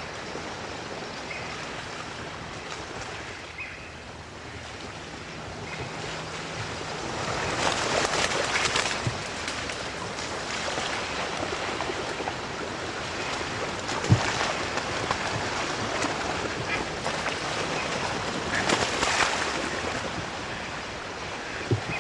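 A big flock of ducks dropping into flooded timber: a noisy rush of wings and water that swells about eight seconds in and again near the end.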